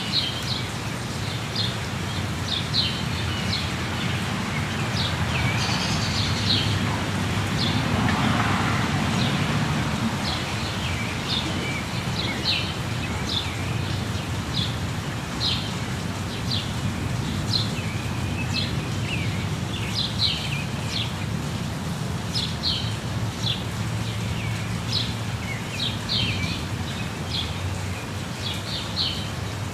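Many short, high bird chirps over the steady rush of falling water from a waterfall.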